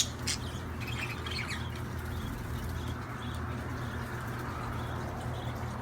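Budgerigars chirping: a few short chirps in the first second and a half, then fainter scattered chirps, over a steady low hum.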